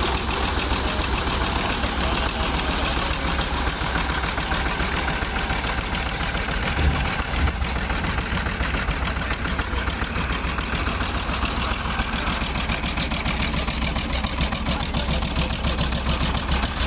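An engine running steadily with a fast, even throb, with two brief louder knocks about seven seconds in.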